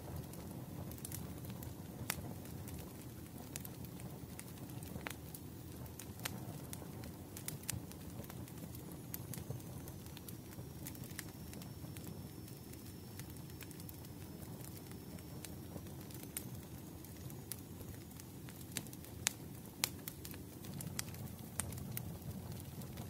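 Wood fire crackling in a fireplace: a steady low rumble of flames with irregular sharp pops and snaps throughout. A faint thin high whistle sounds through the middle.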